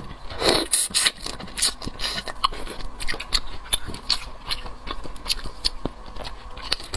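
Close-miked crackling, clicking and smacking of a red devil shrimp being shelled and eaten, in many quick irregular clicks.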